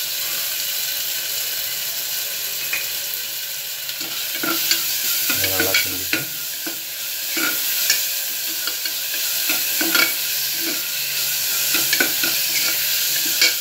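Shallots, curry leaves and ginger-garlic paste frying in sesame oil in a pressure cooker, with a steady sizzle. From about four seconds in, a metal ladle stirs and scrapes against the pot, giving frequent sharp clicks.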